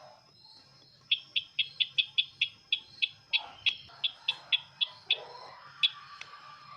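Sisintar ladang bird call played as a trapping lure: a fast run of sharp, high chirps, about four to five a second, lasting some four seconds, followed by two single chirps near the end.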